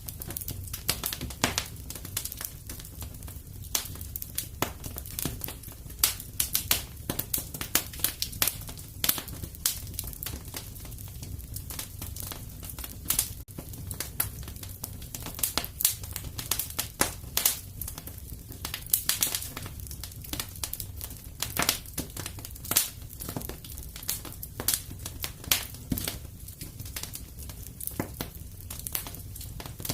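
Wood fire in a fireplace crackling and popping: irregular sharp snaps over a steady low rumble of the flames.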